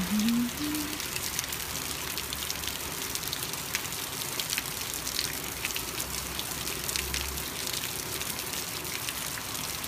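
Steady rain falling, heard as an even hiss with a dense patter of individual drops striking nearby surfaces. In the first second a brief low tone steps upward in pitch.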